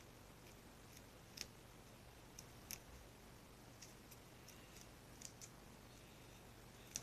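Very sticky glue-based slime being kneaded by hand: faint, scattered sticky clicks every second or so as it pulls apart, against near silence.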